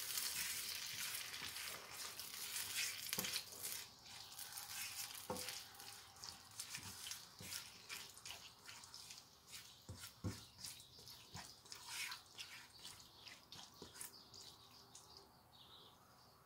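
Chopped tomatoes and onions frying in oil in a nonstick wok while being stirred with a silicone spatula: a soft sizzling hiss with scattered crackles and light scrapes. The sizzle gradually dies down as the pan cools with the added tomatoes.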